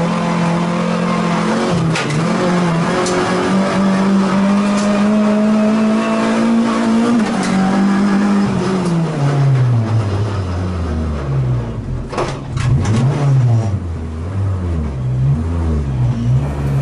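Renault Clio Cup race car's four-cylinder engine, heard inside the cabin. It holds high revs under load for about eight seconds, then the revs fall away steeply as the car slows, and the rest is low revs with several short blips of the throttle.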